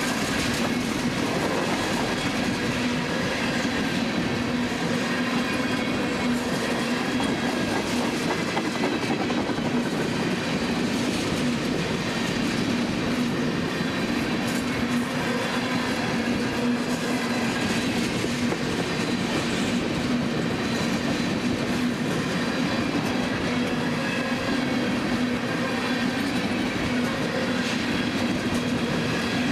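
Empty tank cars of a CSX freight train rolling steadily past, steel wheels running on the rails, with a steady tone through the rolling noise.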